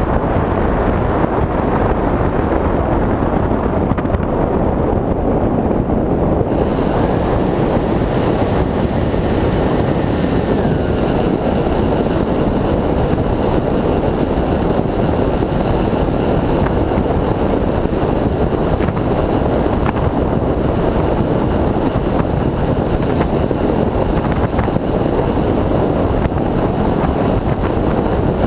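Steady rush of airflow buffeting the onboard camera's microphone on an electric FPV RC plane in flight. The motor and propeller give a faint thin whine under it, which drops in pitch about ten seconds in as the throttle eases.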